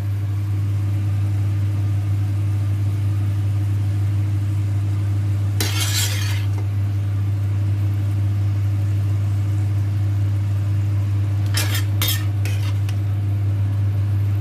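Burgers and mushrooms sizzling in a frying pan under a steady low hum, with a utensil clattering against the pan twice, about six and twelve seconds in.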